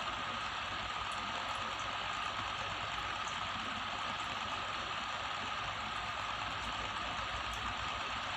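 Steady background hum and hiss with a faint constant high tone, unchanging throughout, with no distinct events.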